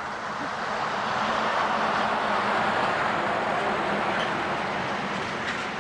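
A vehicle passing by: a rushing noise that swells about a second in, holds for a couple of seconds, then slowly fades.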